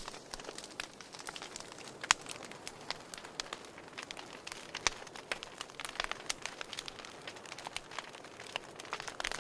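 Wood fire burning in a fireplace, crackling with irregular sharp pops over a soft steady hiss, one louder snap about two seconds in.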